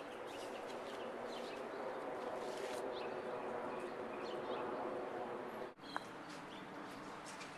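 Outdoor ambience: small birds chirping over a steady hum, with a brief dropout and a click about three-quarters of the way through.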